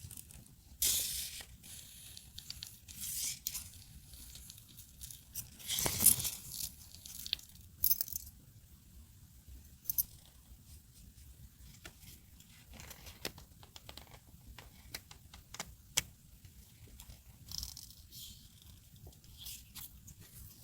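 Close-up paper-crafting handling: stickers and masking tape being peeled and torn, and paper rustling, with small taps and clicks in between. The loudest rustle comes about six seconds in; the second half is quieter, with scattered light ticks.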